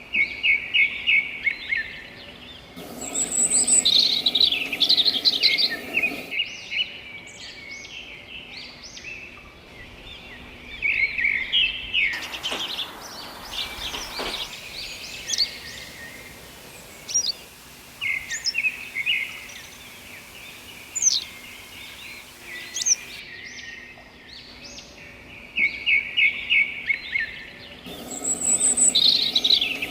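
Several songbirds chirping and singing: rapid trilled phrases and short whistled notes that sweep quickly in pitch, some close and loud, others fainter. A fast trill near the start comes back near the end, as in a looped nature recording.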